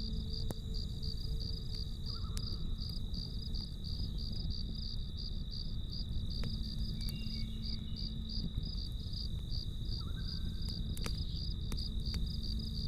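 Crickets chirping in a fast, even pulse, with scattered sharp crackles of a campfire over a steady low rumble and hum.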